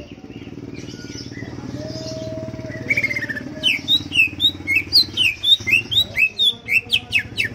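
Greater green leafbird (cucak ijo) singing: soft scattered chirps at first, then from about halfway a fast, loud run of sweeping whistled notes, about four a second. A steady low hum runs underneath.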